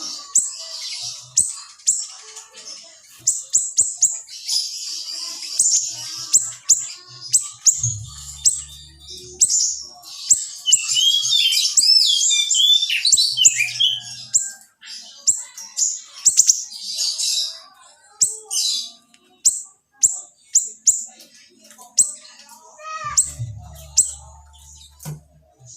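A small siri songbird singing in rapid, sharp, high-pitched chirps and trills, with a denser run of twittering in the middle. A faint low hum comes in twice.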